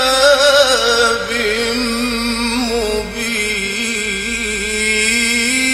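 Male Quran reciter's voice chanting in the melodic mujawwad style, holding one long ornamented phrase with a wavering, curling pitch, dipping briefly about three seconds in before going on.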